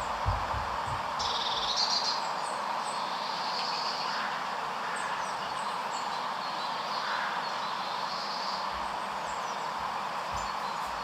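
Small birds chirping and twittering over a steady background rush of outdoor noise, with a few low thumps in the first moment.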